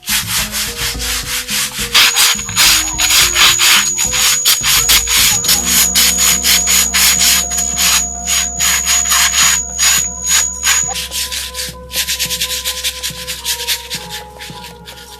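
Rapid, repeated scraping or rubbing strokes of something worked over a hard surface, with a short break before the strokes resume near the end.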